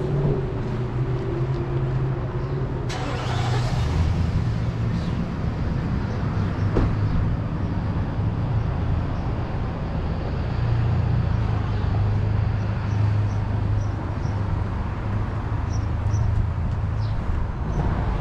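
Vehicle engine running with a steady low drone whose pitch rises and falls. A brief hiss about three seconds in.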